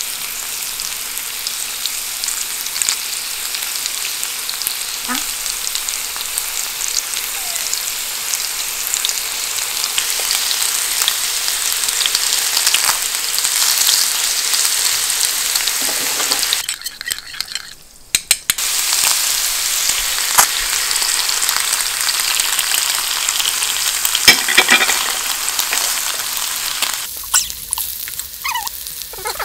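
Salmon strips frying in melted unsalted butter on a ridged grill pan: a steady sizzle with small crackles as chopsticks move and turn the pieces. The sizzle drops out for about two seconds just past halfway, then carries on.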